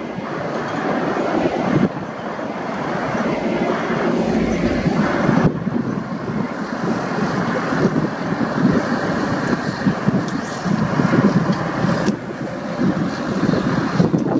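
KiwiRail freight train wagons rolling past, a steady rumble of wheels on the rails.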